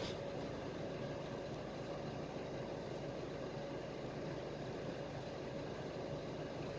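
Steady running noise inside a PAZ-320405-04 Vector Next bus on the move: engine drone and road noise, with a steady mid-pitched tone running through it.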